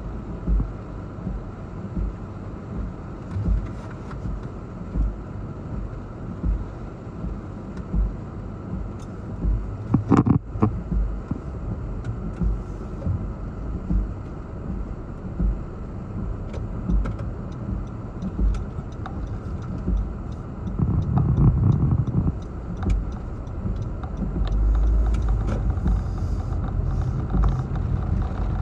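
Hurricane-force wind gusting over the microphone, a steady rush broken by frequent low buffeting thumps, swelling louder in the last third.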